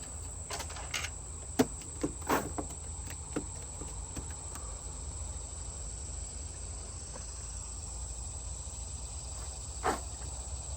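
Steady high-pitched chirring of crickets or other insects, with a few sharp knocks in the first couple of seconds and one more near the end.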